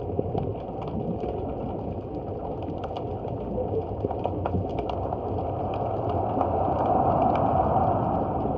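Seawater sloshing and surging under a wharf, with many small clicks and knocks through it; the surge swells louder near the end.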